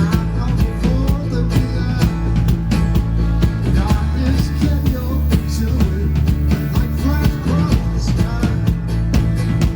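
Live band playing amplified rock music with guitar and a steady drum beat.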